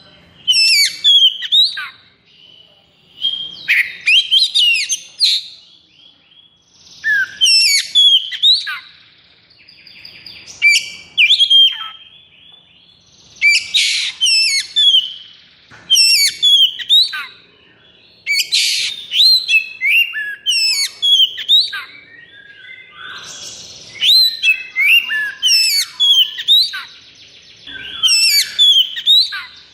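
Oriental magpie-robin (kacer) singing loudly in repeated bursts of rapid whistled, chattering phrases, a new burst every two to three seconds, with a few harsh rasping notes among the whistles.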